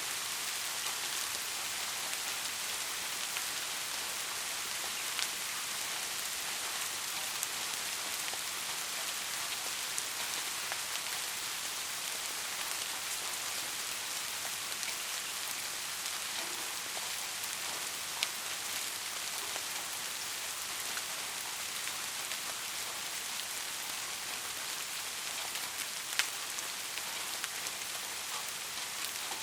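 Steady rain falling, an even hiss with sharper drops ticking now and then, the loudest about a third and near nine-tenths of the way through.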